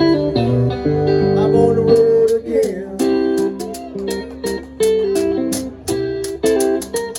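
Live band playing a guitar-led instrumental passage, plucked strings over held bass notes. A steady beat of sharp percussive hits joins from about three seconds in.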